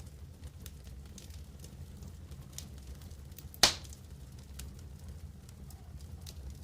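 Wood campfire crackling with scattered small ticks over a steady low rumble, and one loud, sharp pop a little past halfway through.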